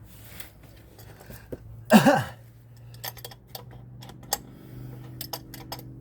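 A series of sharp metallic clicks and taps from hand tools and a metal catch can being handled and set in place, after one short loud sound about two seconds in. A low steady hum sets in about four seconds in.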